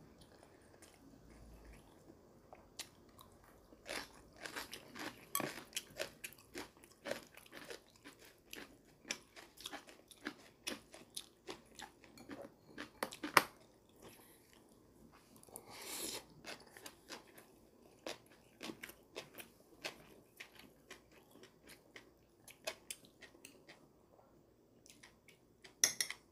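Chewing of grilled eel and rice: a steady run of small wet mouth clicks, mixed with taps of metal chopsticks against the rice bowl, one sharper click about halfway through.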